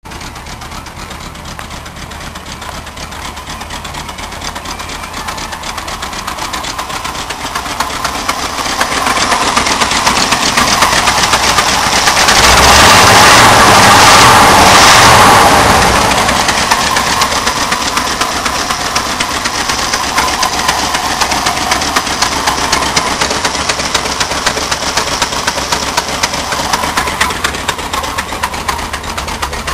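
1979 Ford F-150's 400 V8 running with a rapid ticking exhaust puff, pretty nasty sounding from two blown exhaust donut gaskets leaking at the manifold joints. It grows louder to a peak about halfway through, then eases back.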